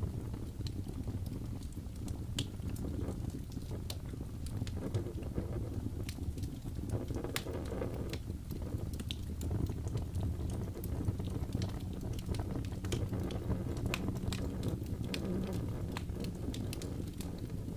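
Wood fire burning steadily: a low rumbling flutter of flames with frequent sharp crackles and pops from the burning wood.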